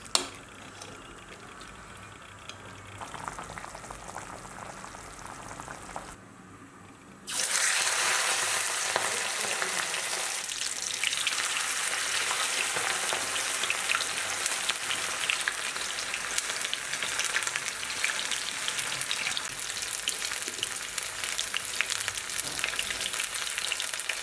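Quail meat frying in hot oil: a sharp knock at the very start, then after a quieter stretch a loud, steady crackling sizzle starts suddenly about seven seconds in.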